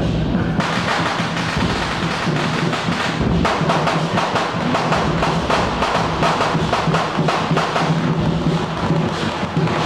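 Percussion of a Taiwanese temple procession, drums beating with clattering percussion, over a dense crackle that starts about half a second in and grows stronger a few seconds later.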